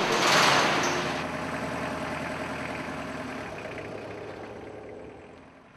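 SUV engine running as the vehicle drives away over sand, loudest about half a second in and then fading away steadily over several seconds.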